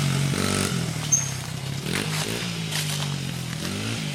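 Homemade dirt bike's engine running at a distance, its pitch rising and falling as the rider revs it along the trail, with a short click about a second in.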